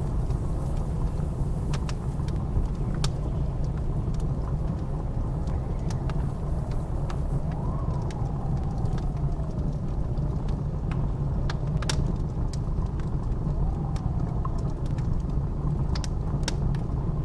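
Blizzard wind blowing with a steady low rumble, and a howl that rises and falls twice, mixed with the scattered pops and crackles of a wood fire.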